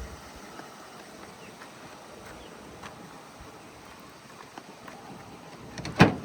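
Faint background with a few small scattered clicks, then one sharp, loud knock near the end.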